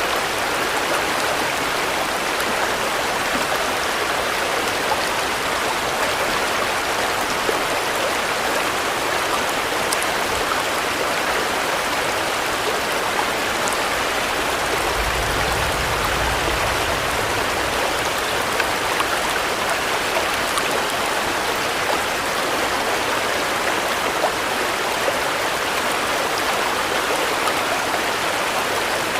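Steady heavy rain falling, an even hiss of drops, with a brief low rumble about halfway through.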